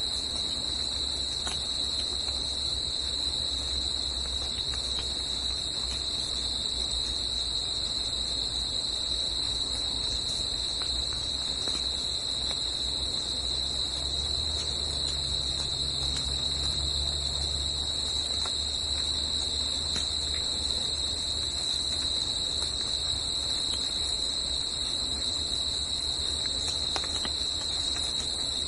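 Steady, unbroken high-pitched insect chorus. Underneath it, a low rumble swells around the middle and fades away a little past two-thirds of the way through, like something large passing in the distance.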